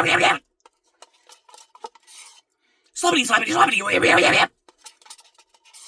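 Faint, scattered clicks and scrapes of a spoon in an ice cream cup. A voice breaks in loudly for about a second and a half near the middle.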